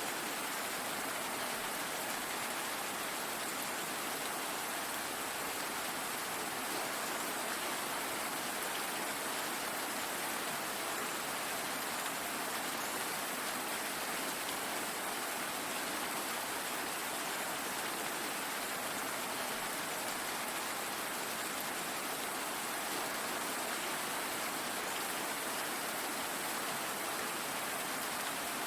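Steady rain: an even, unbroken hiss of falling drops that neither rises nor falls.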